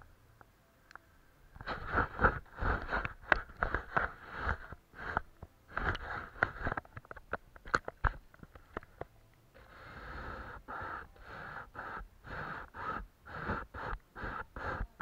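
Watercolour paintbrush stroking and dabbing on paper: a quick run of short scratchy strokes with small clicks, several a second, and one longer smooth sweep about ten seconds in.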